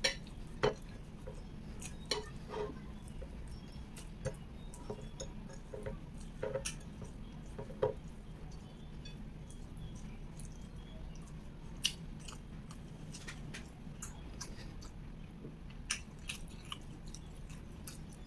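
Close-up eating sounds of a person chewing sticky rice with shredded beef serundeng: scattered short wet clicks and smacks, about a dozen sharp ones, over a steady low hum.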